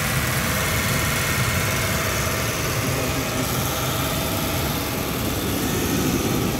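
Toyota engine idling steadily, heard close up with the hood open.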